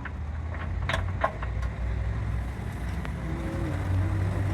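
A machine running with a steady low drone, with two sharp clicks about a second in.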